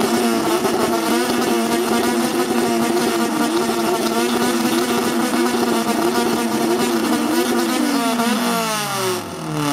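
Car engine revving hard through a custom exhaust, held at high revs with a slight regular waver for about eight seconds. The revs then fall away toward idle near the end.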